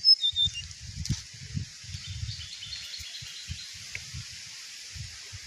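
Small songbird chirping: a quick falling run of high notes right at the start, then a fainter twittering series, over low bumps and rustles from handling.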